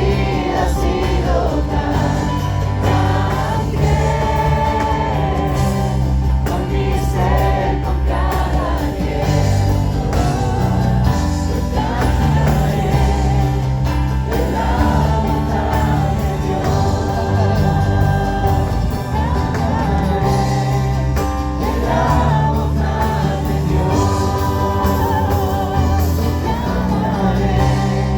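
A group of voices singing a Spanish-language worship song together over a steady instrumental accompaniment.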